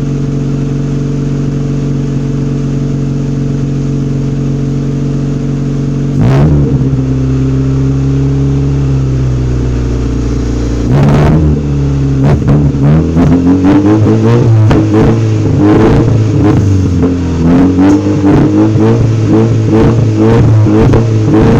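Honda Civic's D16Y7 four-cylinder engine running through a Thermal R&D muffler with a side-exit dual-tip exhaust. It idles steadily, is revved once about six seconds in, and from about eleven seconds on is blipped over and over in quick rises and falls.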